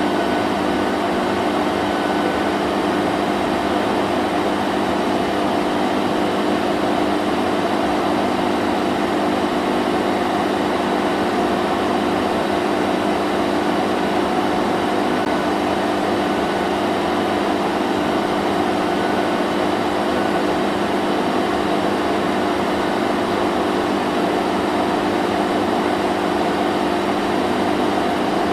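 Vacuum cleaner running steadily: a constant motor whine and rush of air with a steady hum, no change in pitch or level.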